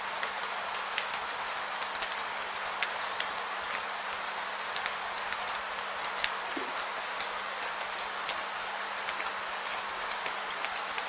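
Steady rain falling, an even hiss with many individual drops ticking irregularly on a surface, under a faint steady low hum.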